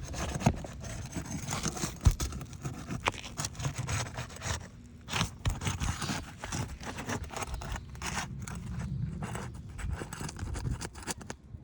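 Brittle old asphalt roof shingles being pried up and handled, scraping against each other in irregular strokes, with one sharp knock about two seconds in.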